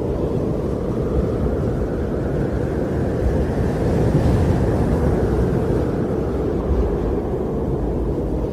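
Strong winter wind blowing steadily with a low, deep rush, swelling a little in the middle and easing off again.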